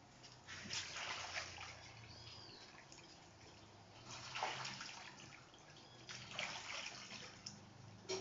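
Splashing and sloshing in shallow rainwater pooled on a swimming-pool cover, in several bursts with quieter gaps between them.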